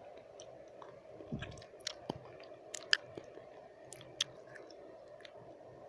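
Wet mouth sounds made close to the microphone: scattered sharp, sticky clicks and smacks of lips and tongue, the loudest about three and four seconds in, over a steady background noise.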